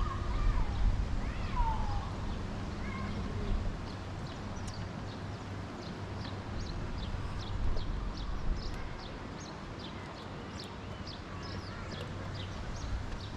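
Birds chirping: many short, high calls, several a second, from a few seconds in, over a steady low rumble.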